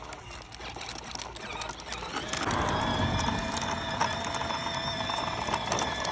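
Small electric motor and gears of a toddler's dirt bike whining steadily as it drives, starting up about two seconds in.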